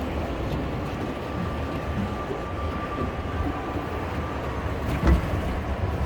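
Steady background din of a busy indoor mall, a low rumble of crowd and room noise, with a faint held tone through the middle and one thump about five seconds in.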